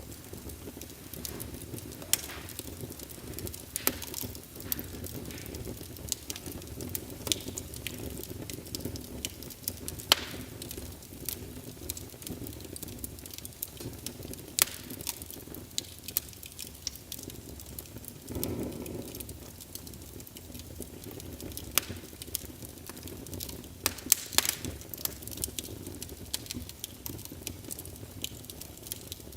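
Wood fire burning in a fireplace: a steady low rumble of flame with irregular crackles and sharp pops, and a brief swell about two-thirds of the way through.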